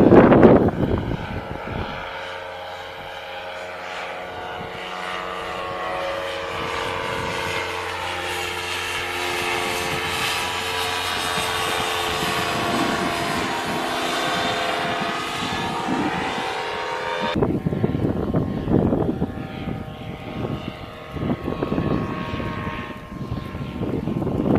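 Paramotor engine and propeller running steadily. Wind buffets the microphone with heavy rumbling at the start and again for the last third or so.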